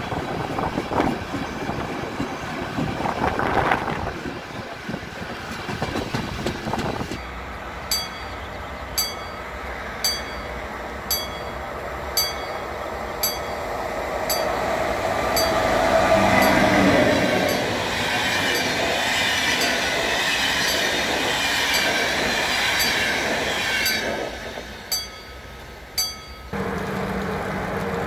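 Train wheels clattering on the track, heard from aboard a moving train. After a cut, a train approaches and passes, its running noise swelling to its loudest about halfway through, with a sharp click repeating about once a second. Near the end, a steady hum from a locomotive standing at a platform.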